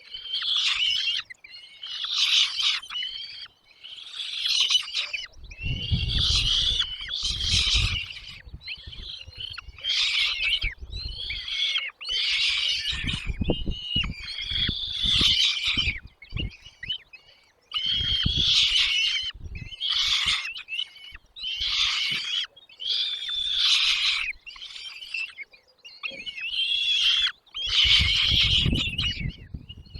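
Nestling birds chirping in a nest in loud, high-pitched bursts, one about every second or two. Low thumps or rustles sound under some bursts, about six seconds in, around fourteen seconds, and near the end.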